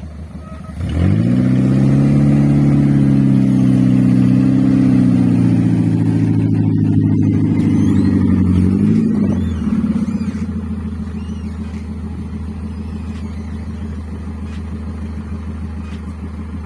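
Toyota 4K four-cylinder engine of an owner-type jeep picking up speed sharply about a second in and held at higher revs for several seconds, then easing back to a steady, lower-pitched running.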